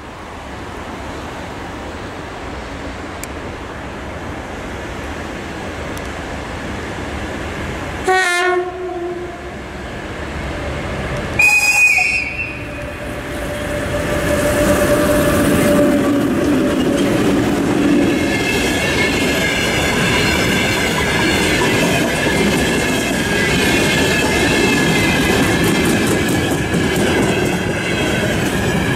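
VL10K DC electric freight locomotive approaching with its train. It gives a short low horn blast about eight seconds in and a higher whistle about three seconds later, then the locomotive and loaded open wagons pass close with a loud rumble and wheel clatter, and high wheel squeal over the second half.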